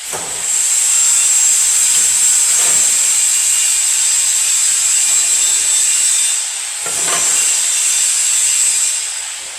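Steady loud hiss of compressed air from the pneumatic head lock of a double-head aluminium cutting saw, released to set the cutting length. A few faint knocks sound over it, and the hiss dips briefly before fading out near the end.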